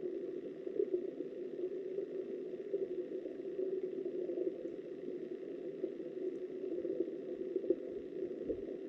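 Steady, muffled rush of river water heard by an underwater camera, with faint crackles.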